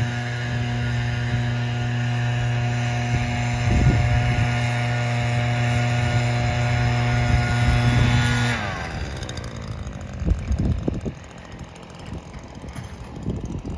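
Single-engine piston airplane passing close by, its propeller and engine note steady and strong, then dropping in pitch about eight and a half seconds in as it goes past and fading away. Gusts of wind rumble on the microphone after it has passed.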